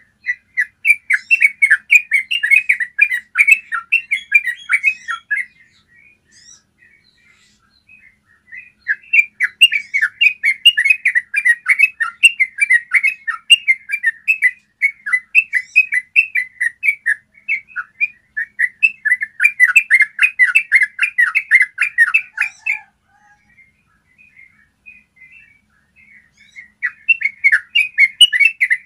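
Yellow-vented bulbul singing its long rolling song: rapid runs of clear chattering notes in three long bouts, with short pauses and a few scattered notes between them.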